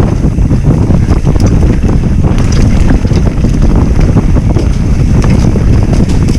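Loud, steady wind buffeting on the camera microphone from riding a bicycle at speed, with scattered clicks and rattles from the bike.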